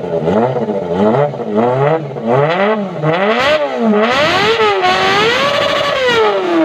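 Kawasaki ZX-25R's 250 cc inline-four revved through an aftermarket exhaust: a rapid series of quick throttle blips, each rising and falling, then about four seconds in a longer rev held high before dropping back near the end.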